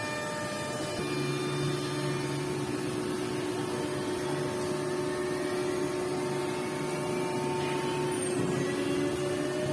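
5-axis CNC woodworking machine running, a steady machine hum with several motor tones that shift about a second in. Near the end a motor whine starts rising in pitch.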